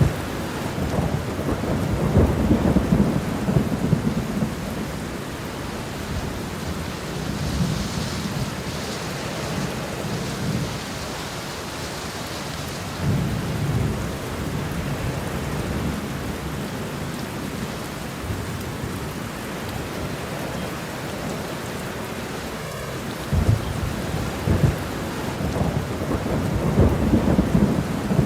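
Steady rain with repeated low rumbles of thunder, heaviest about a second in and again near the end.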